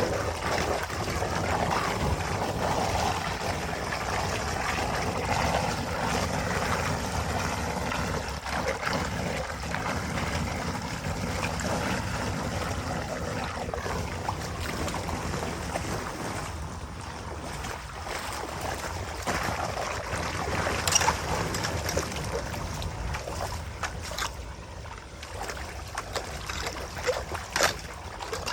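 Water flowing and trickling through a drain, with a few sharp knocks toward the end.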